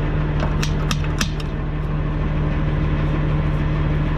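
Peterbilt dump truck's diesel engine idling steadily, with a quick run of five or so sharp clicks in the first second and a half as loose gravel is knocked off the truck.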